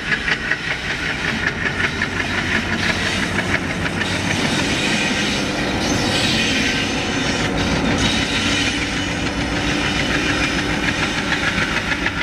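Train hauled by ALCO diesel locomotives passing close by, its wheels clattering rapidly and steadily over the rail joints.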